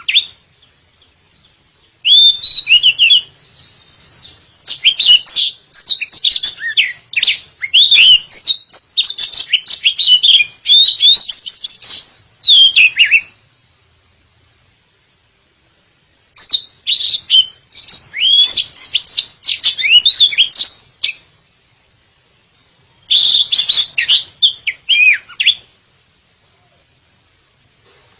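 Oriental magpie-robin (kacer) singing in full song: rapid, varied whistles and chirps that slide up and down. It comes in four phrases, one very short, one about eight seconds long and two shorter, with pauses of one to three seconds between them.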